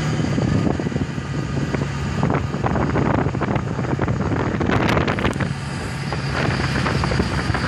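A vehicle's engine hums steadily while driving, heard from inside with the window open. Wind buffets the microphone in irregular gusts, strongest about five seconds in.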